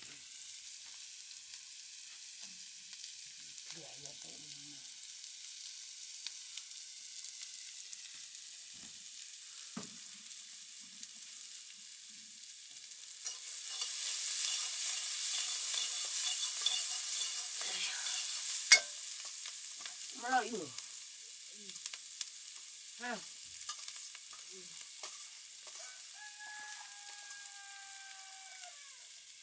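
Chow mein noodles frying in a wok with a steady sizzling hiss. About halfway through it gets louder for several seconds as the noodles are stirred and tossed with tongs, and a sharp clack of the tongs on the pan comes near the end of that stretch.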